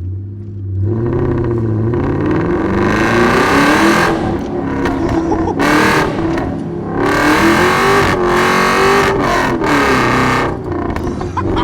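Straight-piped Ford BA XR8's V8 at full throttle, revving hard in repeated surges, its pitch climbing steeply and dropping back several times. Bursts of hiss come and go across the revs.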